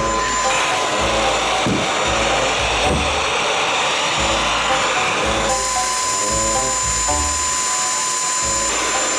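Cordless cyclone stick vacuum cleaner running, a steady rushing with a high whine, under background music.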